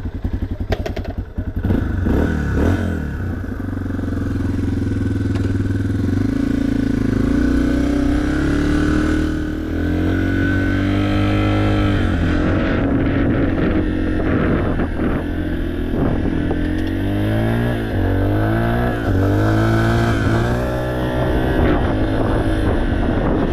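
A 2023 Yamaha TT-R230 trail bike's air-cooled four-stroke single-cylinder engine being ridden. It runs at a low, pulsing idle for the first moments, then revs up and pulls away, its pitch rising and falling repeatedly as the rider works the throttle and shifts gears.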